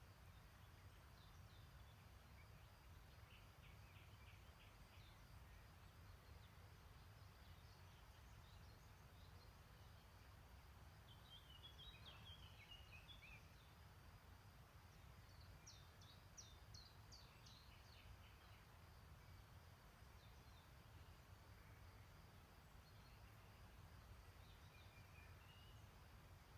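Very quiet stream-side ambience: small birds chirp faintly in the background in short clusters now and then, over a low steady rumble.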